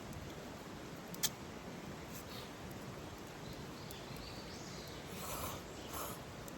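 Steady outdoor hiss with a single sharp crack about a second in and brief rustling near the end.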